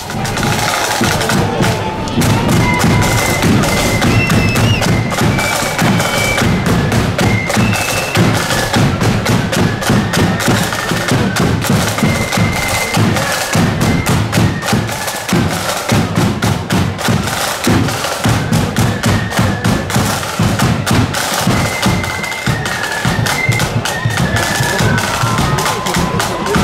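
Marching flute band playing: shrill flutes carry the melody over fast, dense snare drumming and heavy bass drum beats.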